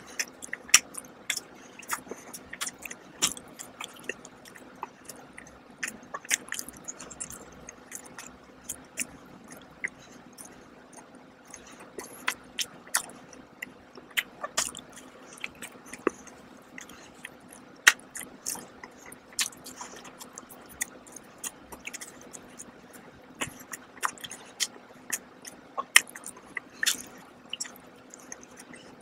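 Close-miked chewing and biting of a glazed ring donut, with many irregular sharp mouth clicks, several a second.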